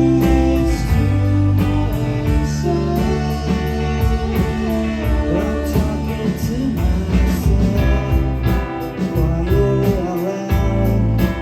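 Live band playing a song, with guitars, bass and drums keeping a steady beat.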